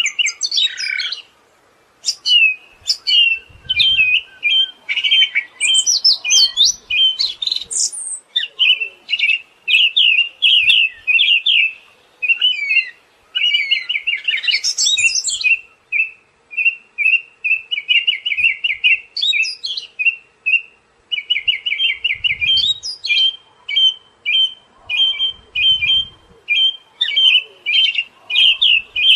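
Siberian thrush singing: a continuous stream of rapid, chattering chirps with higher, sliding whistled phrases mixed in every few seconds.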